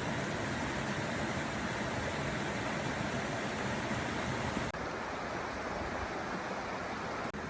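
Water of a small stream flowing steadily, with a brief break about two-thirds of the way through.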